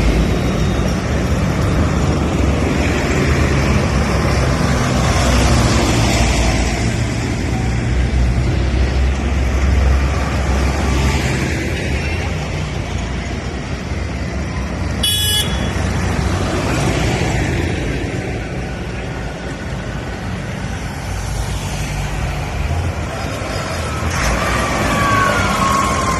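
Tractors in a road run driving past, their engines running loudly, with a short horn toot about halfway through.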